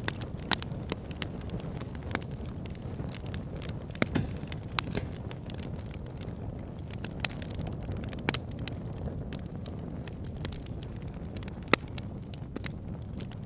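Wood fire burning in a fireplace: a steady low rumble of flames with irregular sharp crackles and pops, the loudest about half a second in, around four and eight seconds in, and near the end.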